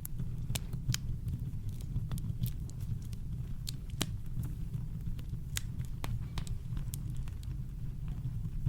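Campfire crackling: irregular sharp snaps and pops scattered over a steady deep rumble of brown noise.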